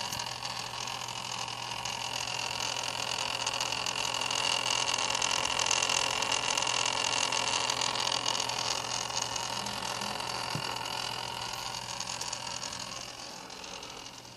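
Antec Kühler 620 all-in-one liquid CPU cooler making an abnormal rushing, whirring noise with a faint high whine. It swells for several seconds, then fades away near the end.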